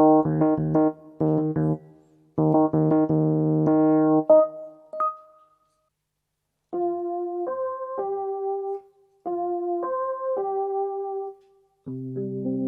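Casio AiX digital keyboard playing an electric piano tone: fast repeated chords for about five seconds, a short break, then a slower phrase of held notes and a sustained chord near the end.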